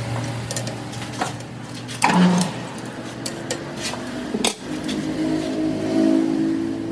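Metal parts and tools clanking and knocking a few times at irregular intervals, the loudest clank about two seconds in, over a steady machine hum.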